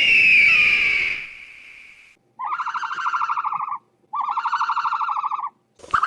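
Animal calls: a high, pitched call that fades over the first two seconds, then two separate buzzy, rapidly pulsing calls of about a second and a half each, and short bursts near the end.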